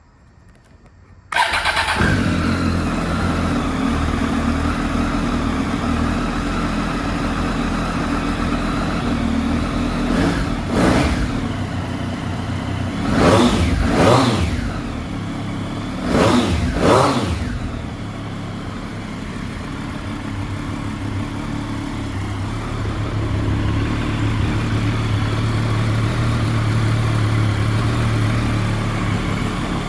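Triumph Street Triple 765 RS's three-cylinder engine, breathing through an aftermarket Arrow silencer, starting up about a second in and settling to idle. Several quick throttle blips follow near the middle, each rising and falling in pitch, before it goes back to a steady idle.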